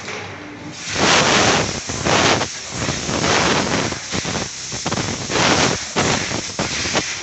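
Compressed-air blow gun blasting air at a freshly washed bicycle to blow off water, in short hissing bursts about one a second.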